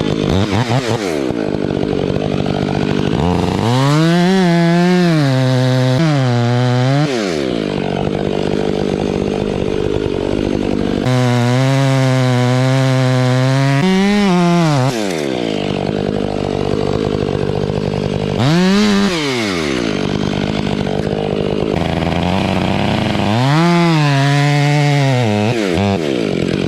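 Large two-stroke chainsaw revved up to full speed and let back down about four times, the longer full-speed stretches held for a few seconds, running steadily at lower speed in between.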